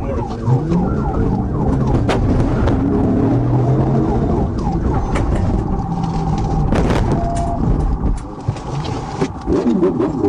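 Police cruiser's siren sounding during a high-speed pursuit, cycling quickly up and down, then holding a steadier tone for a few seconds midway, over the car's engine and road noise.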